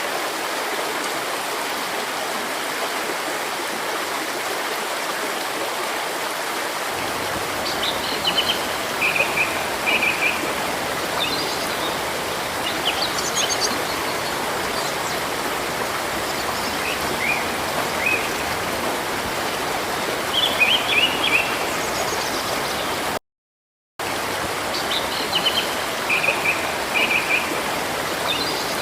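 Steady rush of flowing river water, with small birds giving short high chirps and twitters starting several seconds in. The sound drops out completely for under a second about two-thirds of the way through.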